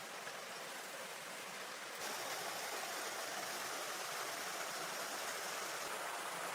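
Steady rush of flowing water, which steps up louder and brighter about two seconds in.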